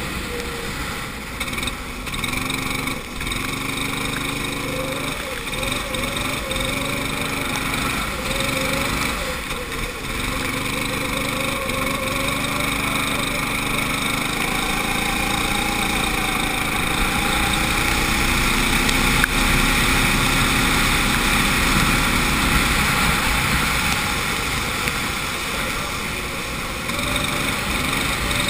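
Go-kart engine heard onboard, its pitch falling and rising as the driver lifts off for corners and accelerates out of them, with several quick dips early on. The note climbs in one long pull through the middle and drops away near the end.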